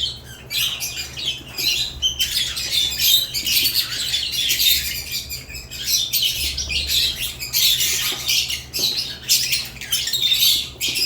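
Caged lovebirds chattering, a dense stream of short, high chirps and squawks that overlap without pause.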